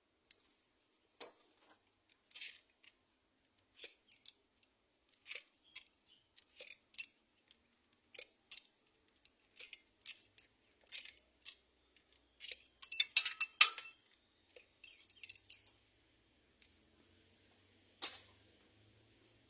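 Metal tools and engine parts clinking and rattling as a cylinder head is being unbolted and lifted off an engine, with scattered single clinks, a busier, louder burst of rattling about two-thirds of the way through, and one sharp clink near the end.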